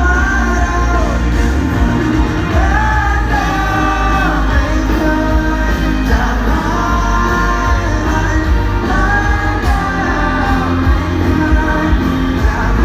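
Live pop-rock band performance, a singer carrying the melody over the band, with a loud, heavy bass.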